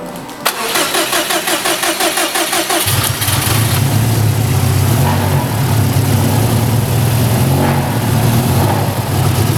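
Subaru WRX STI's turbocharged flat-four engine cold-started: the starter cranks rhythmically for about two seconds, the engine catches about three seconds in and settles into a steady, loud idle.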